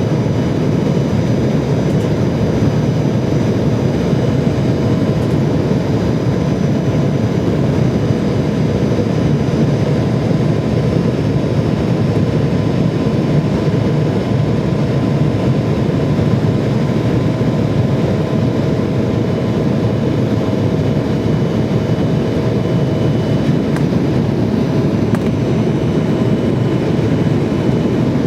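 Steady jet-airliner cabin noise: engine and airflow at an even level with a faint steady hum over it.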